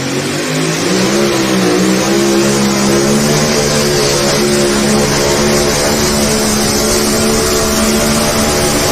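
A pulling vehicle's engine running hard at high revs under load as it drags the weight sled. The pitch dips about a second in, then holds steady.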